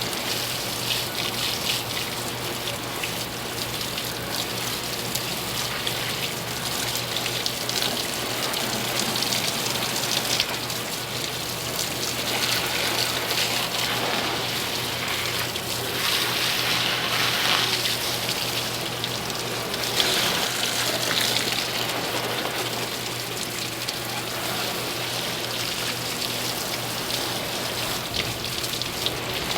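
Fine mist of water spraying over an engine bay to rinse off dish-soap suds. It makes a steady spray noise that swells louder several times in the middle as the spray is aimed around.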